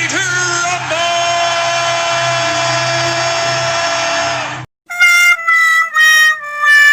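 Back-to-back comedic musical sound effects. A horn-like tone bends in pitch, then holds one long steady note that cuts off suddenly about four and a half seconds in. After a brief gap comes a sad-trombone-style 'wah-wah-wah' failure jingle: short brassy notes stepping down in pitch, the last one starting to waver near the end.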